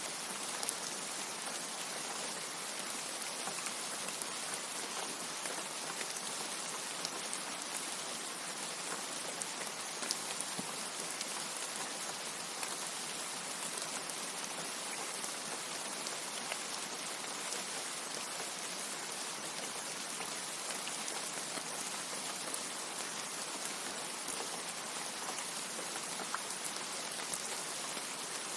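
Steady rain falling: an even hiss with scattered sharper drop ticks on top, and no thunder.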